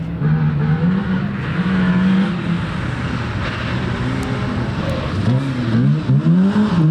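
Rally car engine running hard on the stage, then from about five seconds in revving up and down several times in quick succession as the throttle is worked.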